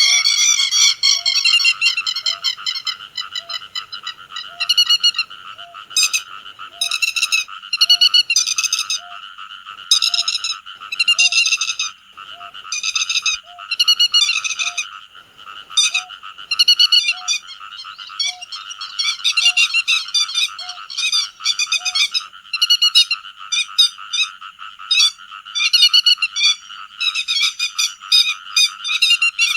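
Grey-headed lapwings calling over and over, short sharp notes about once a second, over a dense, steady chorus underneath. A faint low note also repeats about once a second and stops about two-thirds of the way through.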